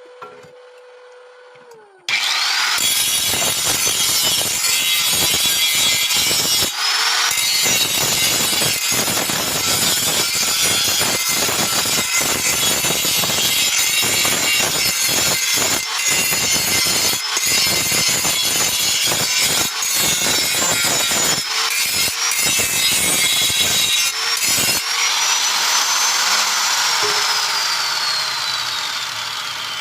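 Angle grinder spinning up about two seconds in and grinding metal with a harsh, even rasp that keeps breaking off for a moment. Near the end it spins down with a falling whine.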